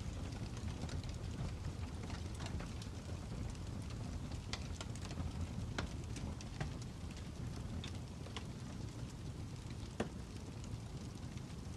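Fire crackling: a steady low rumble with irregular sharp pops and snaps scattered through it, one louder pop about ten seconds in.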